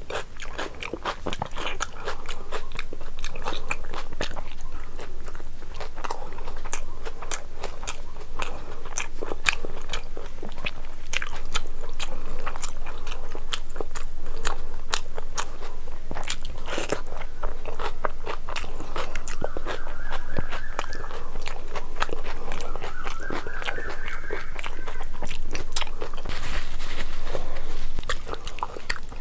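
Close-up chewing of biryani: a dense, irregular run of wet mouth smacks, clicks and bites.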